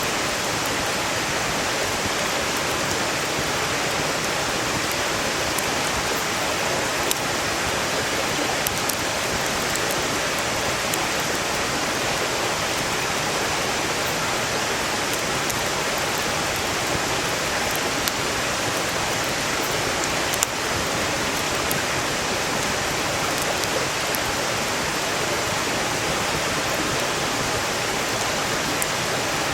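Steady rush of a valley stream flowing beside the campsite, loud and even, with a few sharp crackles from burning firewood, the strongest about 20 seconds in.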